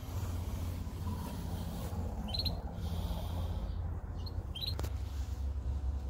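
A small bird chirps twice, each time a quick cluster of high notes, over a steady low rumble.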